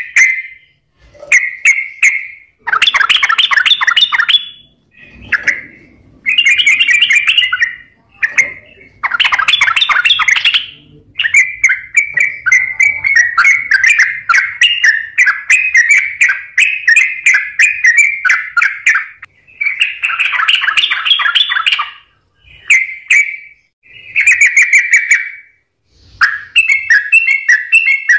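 Yellow-vented bulbul (trucukan) singing vigorously in bursts of rapid chattering notes, each phrase a second or few long with short pauses between, and one long unbroken run of about eight seconds in the middle.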